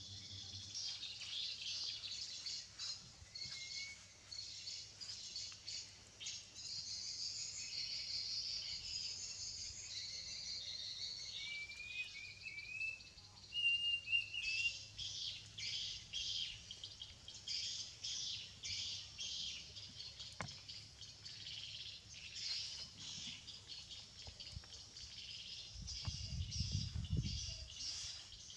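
Small birds chirping and twittering continuously, with a few short whistled calls that slide upward about halfway through. A low rumble lasts for a couple of seconds near the end.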